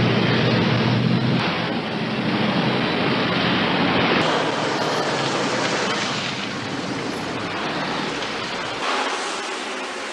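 Cars at speed: a loud, steady rush of engine and road noise, with a low engine note in the first second or so. The sound changes abruptly about four seconds in and again near the end.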